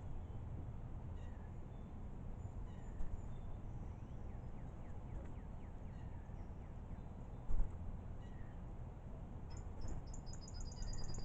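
Faint scattered bird calls over a steady low background rumble, with a brief low thump about seven and a half seconds in and a rapid high-pitched trill near the end.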